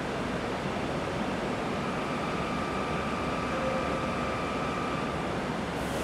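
Steady hum and hiss of an E7 series Shinkansen train standing at the platform with its onboard equipment running, with faint steady tones in the middle.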